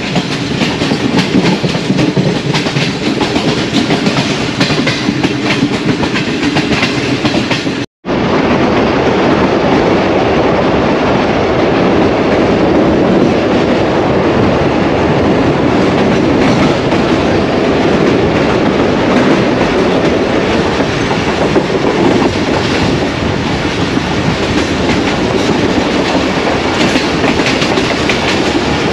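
Passenger train running at speed, its wheels rumbling steadily and clattering over the rail joints. The sound cuts out abruptly for an instant about eight seconds in.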